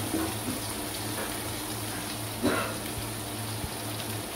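Chicken kofte and onion masala sizzling as they fry in a wok, a steady hiss, with one louder clatter about two and a half seconds in.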